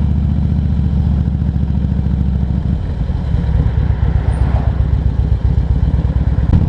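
Harley-Davidson Ultra Classic Electra Glide's V-twin engine running, heard from the saddle. Its note is steady for the first few seconds, then turns rougher and more uneven about three seconds in.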